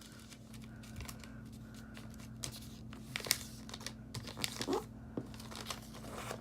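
A sheet of paper being handled and folded by hand: faint crinkling and short crisp creasing ticks scattered through, thickest in the middle. A steady low electrical hum runs underneath.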